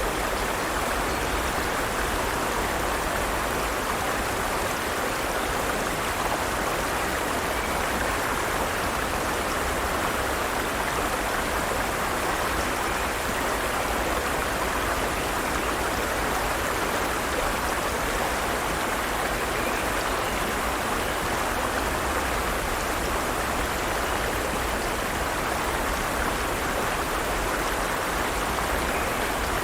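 Forest stream flowing steadily over rocks, a constant rushing of water.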